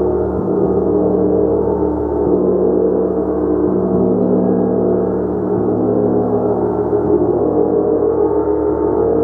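A gong played continuously: a dense, sustained wash of many overlapping tones that swells and holds without a break.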